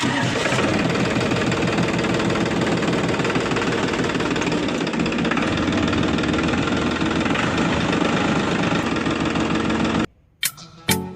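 A tractor engine running steadily at idle with a knocking beat for about ten seconds, then cutting off suddenly. Music with sharp percussive beats begins just before the end.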